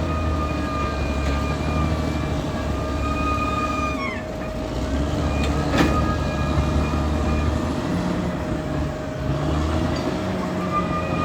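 Caterpillar D6R XL bulldozer at work, its diesel engine a steady drone. A high metallic squeal runs over it, dropping away about four seconds in and coming back near the end, with a single sharp clank a little before six seconds.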